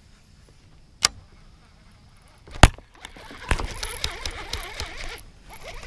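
Kayak and fishing gear being handled: two sharp knocks, the second much louder, then about two seconds of clattering and scraping.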